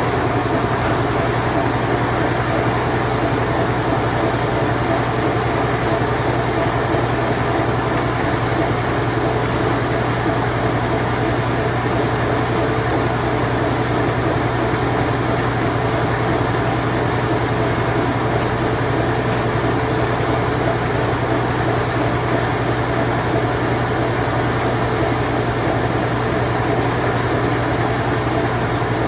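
Late-1980s Whirlpool Imperial Clean Touch washing machine running in its spin cycle: a constant motor hum with a low steady tone under an even whooshing noise.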